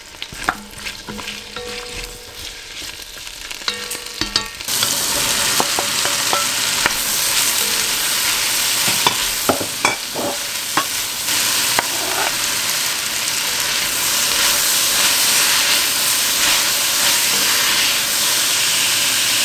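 Chopped vegetables frying in oil in an enamelled pot, stirred with a wooden spatula that clicks and scrapes against the pot. The sizzle is faint at first and steps up suddenly to a steady hiss about five seconds in, with spatula knocks now and then.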